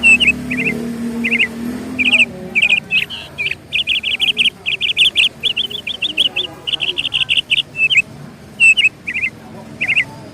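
Small birds chirping: quick runs of short, high chirps, some fast repeated series, with brief pauses between them.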